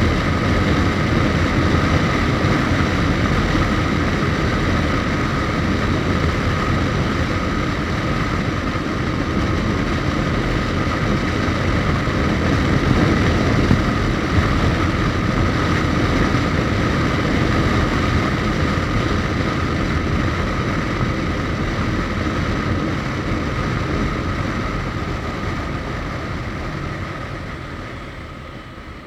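Suzuki GSX1250FA motorcycle riding at steady speed: a dense rush of wind and road noise over the inline-four engine, with a steady high whine. The noise dies down over the last few seconds.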